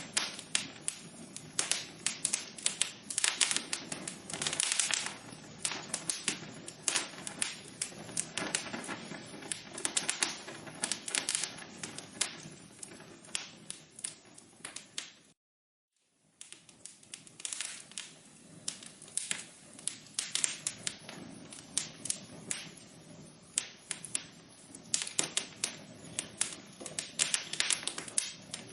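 Wood fire in a fireplace crackling: frequent irregular sharp pops and snaps over a soft steady hiss. The sound drops out to complete silence for about a second just past the middle, then resumes.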